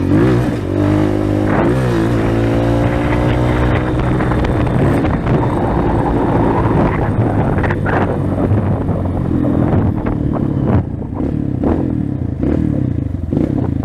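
230 cc trail motorcycle's single-cylinder engine revving under throttle. Its pitch surges up and down in the first couple of seconds, then it runs more steadily with a slow rise in pitch.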